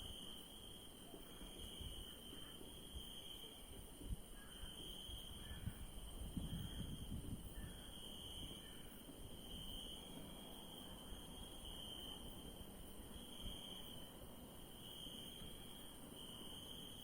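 A night chorus of crickets trilling steadily. The lower trill swells and fades about once a second over a higher continuous one, with a faint low rumble and a few soft thumps beneath.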